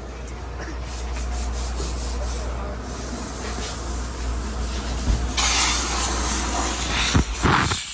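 Water spray hissing, which turns louder and brighter about five seconds in.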